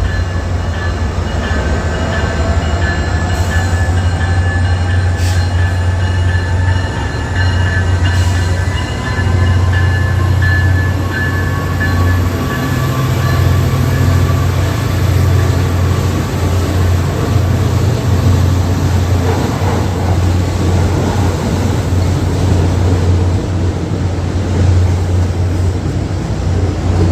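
A train running by: a steady low rumble with faint tones that slowly rise in pitch. A few sharp clicks come in the first several seconds.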